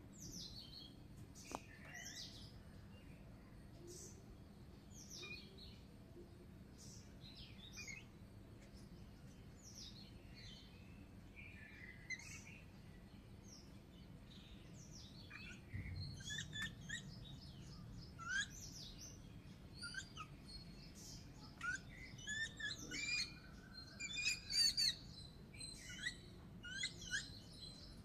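Birds chirping: scattered short, high calls that grow busier and louder in the second half.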